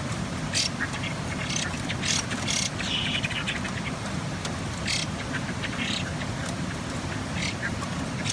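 Chinese hwamei giving about ten short, harsh, noisy calls at irregular intervals over a steady low rumble.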